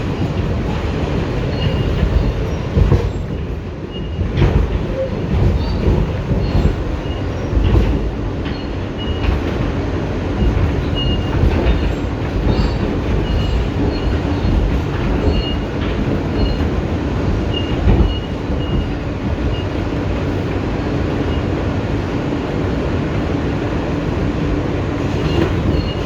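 R160B Siemens subway car running between stations, heard from inside: a steady rumble of wheels on rail, with a few sharp knocks over rail joints and short high squeaks recurring about once a second.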